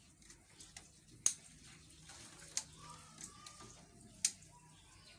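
Three short, sharp taps about a second and a half apart, from handling wood and a measuring tool while marking a length, over a quiet background.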